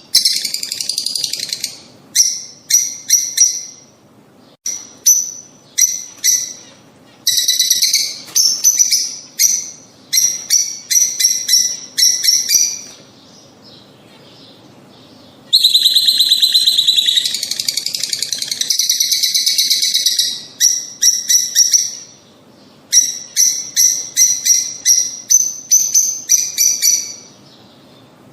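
Lovebirds calling: high-pitched chirps in quick runs of several notes, broken by short pauses, with a denser stretch of continuous chattering about halfway through.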